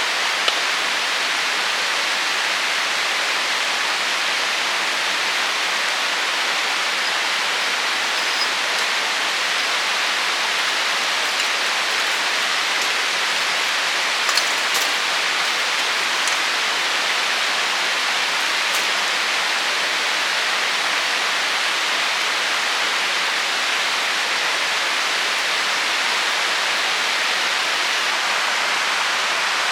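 Steady, even rushing noise with a few faint sharp clicks about halfway through.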